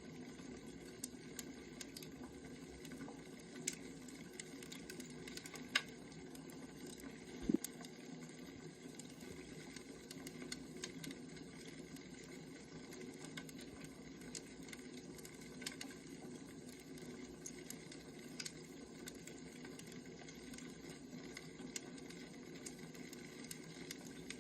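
Firewood burning: a steady low hiss with scattered crackles and pops, with a few sharper snaps about four, six and seven and a half seconds in.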